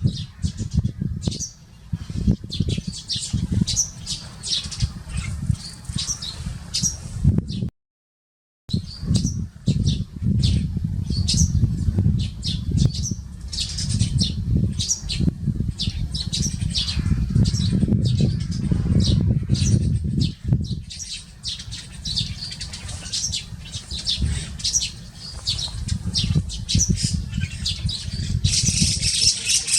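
A flock of Eurasian tree sparrows chirping busily, many short overlapping chirps, over a steady low rumble. The sound cuts out completely for about a second a quarter of the way in.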